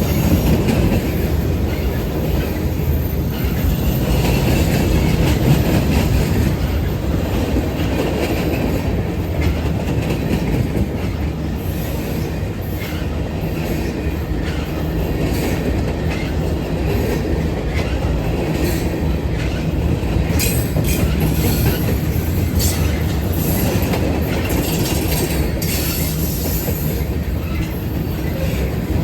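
A train rolling past: a steady low rumble of locomotive and wheels on the rails. Sharp high wheel-on-rail clicks and squeals come thick and fast through the second half.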